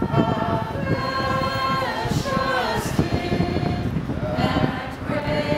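A small group of voices singing a hymn outdoors, holding notes and stepping to new ones, with wind rumbling on the microphone.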